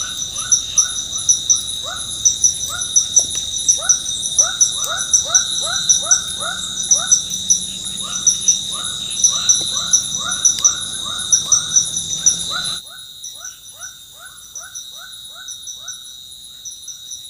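Forest insects trilling steadily at a high pitch, over a rapid run of short, evenly repeated falling chirps, two to three a second. About three-quarters of the way through everything drops suddenly quieter while the chirping carries on.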